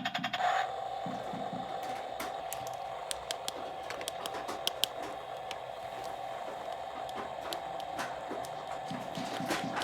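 A small toy motor running steadily with a mid-pitched hum, with scattered light clicks of plastic being handled.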